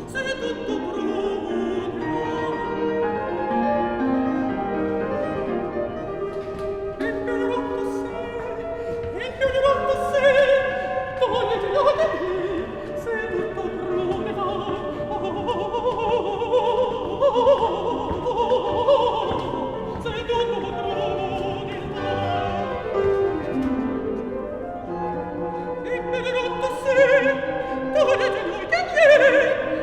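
Operatic singing with classical accompaniment: held notes with vibrato, swelling louder at about a third of the way in and again near the end.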